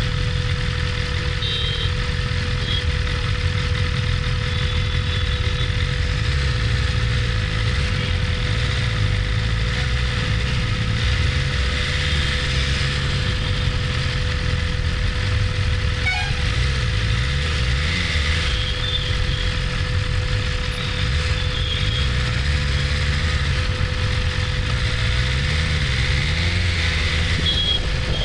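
BMW S1000RR inline-four engine running at low, fairly steady revs amid road traffic, with a few short horn toots from other vehicles.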